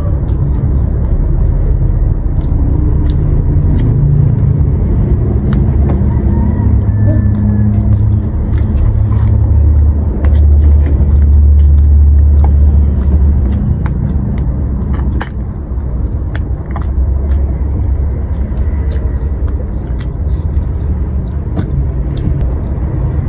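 Close-miked eating of balut and Vietnamese coriander leaves: chewing, with many sharp mouth clicks, over a loud low rumble that swells about ten to thirteen seconds in.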